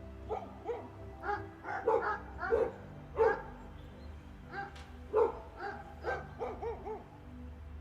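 A dog barking repeatedly in short, irregular barks over background music.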